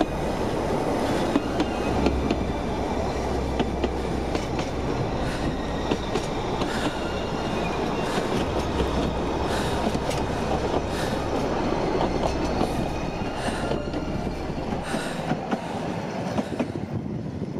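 Festiniog Railway narrow-gauge train running: a steady rumble with many sharp clicks from the wheels over the rails. The deep part of the rumble falls away near the end.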